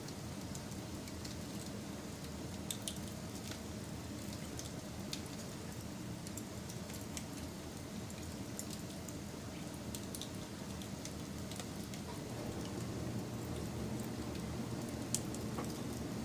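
Campfire crackling: a steady low rush of burning wood with scattered small sharp pops, and one louder pop near the end.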